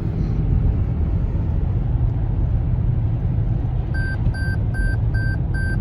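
Steady low road and engine rumble inside a moving car. About four seconds in come five short, evenly spaced beeps, all at one pitch.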